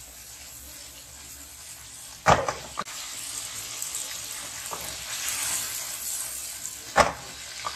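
Kofta meatballs shallow-frying in hot oil in a wok: a steady sizzle that grows louder and brighter partway through, with two sharp knocks, one about two seconds in and one near the end.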